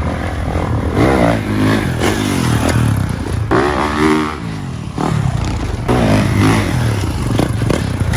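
Off-road engines (dirt bikes or quads) running, with several revs rising and falling in pitch over a steady low rumble.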